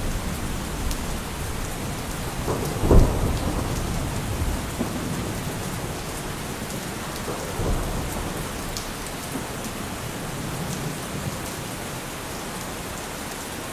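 Steady heavy rain with thunder: a loud thunderclap about three seconds in, a smaller one about eight seconds in, and low rumbling between.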